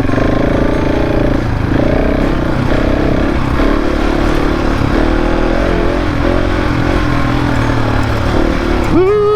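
Husqvarna 701 Enduro motorcycle's single-cylinder engine running while riding off-road, its pitch rising and falling with the throttle.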